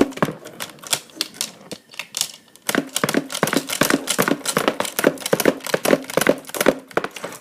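Plastic clicking of a B-daman marble shooter with a CB-48 Direct Loader magazine being fired in rapid fire. A few scattered clicks come first, then from about three seconds in a fast run of sharp clicks, about five a second.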